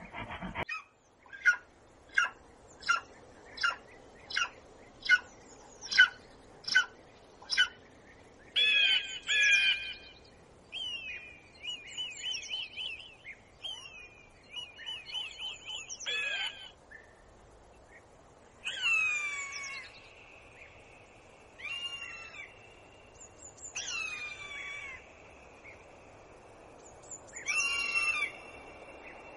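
A bird singing: about ten short, evenly spaced chirps, then a run of phrases made of quick sweeping whistled notes, with short pauses between the phrases.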